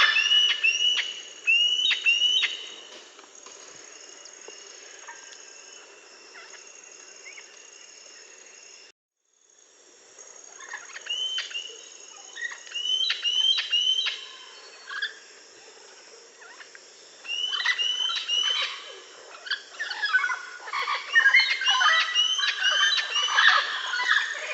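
A flock of aviary parrots chirping and calling in quick short calls that overlap, building into a dense chorus near the end. The sound cuts out briefly about nine seconds in.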